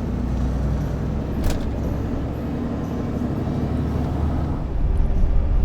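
Delivery truck's engine running with road noise, heard from inside the cab, with a short click about one and a half seconds in. The low rumble grows louder near the end.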